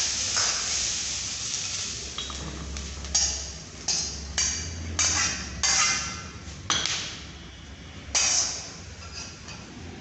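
Kitchenware clinking and knocking: about eight irregular strikes, each ringing briefly, over a faint low hum.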